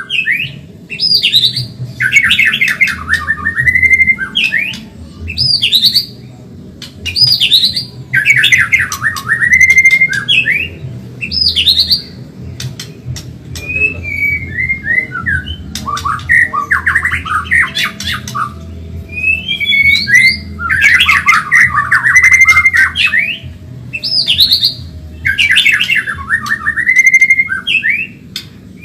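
White-rumped shama (Medan-type murai batu) singing a fast, varied song: phrase after phrase of quick trills and sweeping whistled notes, with short pauses between them. A low steady hum lies underneath.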